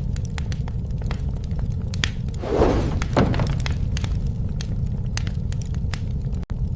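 Wood fire crackling with scattered sharp pops over a steady low rumble. About two and a half seconds in there is a louder crunching burst and a sharp crack. Near the end the sound cuts out for an instant.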